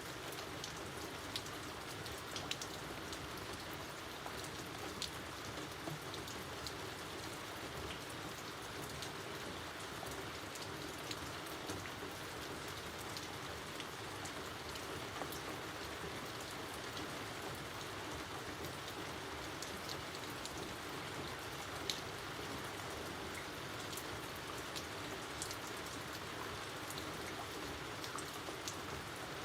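Steady outdoor rain falling, an even hiss with many separate drops ticking on a surface, one drop hitting louder about two-thirds of the way through.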